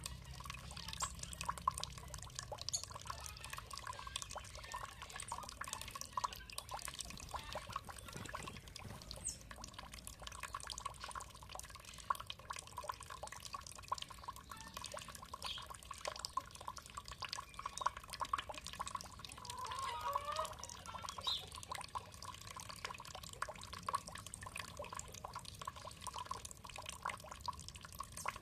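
Water dripping and trickling steadily, a dense patter of small drops falling.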